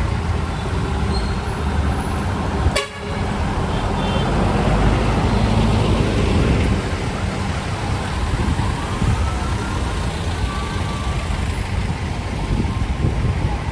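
Street traffic noise: vehicle engines running steadily, with a sharp click and a brief drop in sound about three seconds in.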